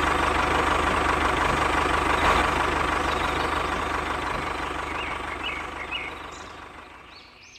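Tractor engine running with a steady low throb, fading away over the last couple of seconds.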